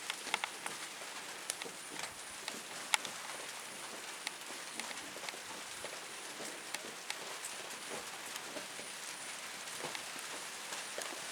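Steady outdoor hiss with scattered light taps and clicks, a few sharper ones in the first three seconds.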